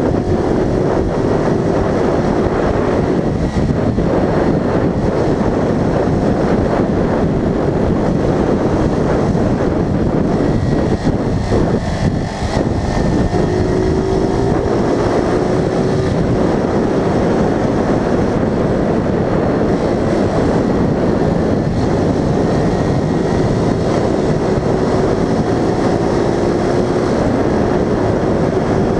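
A vehicle being driven, recorded on board: dense wind and road noise over a running engine whose pitch climbs slowly several times as it accelerates, with a brief drop in loudness about twelve seconds in.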